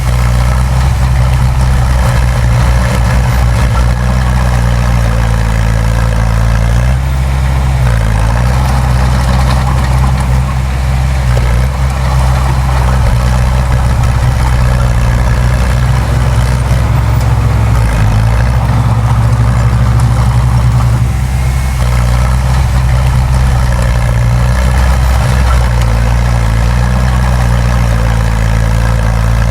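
Heavy diesel engine of earthmoving machinery running steadily and loud, its low note shifting slightly a couple of times.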